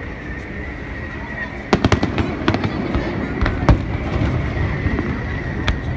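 Fireworks going off: an irregular run of sharp bangs and crackling pops that starts about two seconds in.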